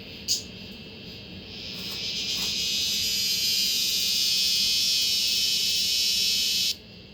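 A male cicada, a Korean robust cicada (chammaemi), buzzing in one steady high-pitched drone. It starts faint, swells to full loudness over a couple of seconds, holds, then cuts off suddenly. It is a continuous buzz rather than the usual pulsed 'maem-maem' song, like a cicada warming up its call.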